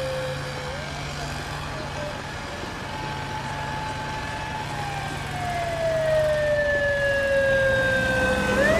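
Japanese police car siren wailing: a quick rise in pitch, then a long slow fall over several seconds, and another sharp rise near the end, over a low traffic or engine hum.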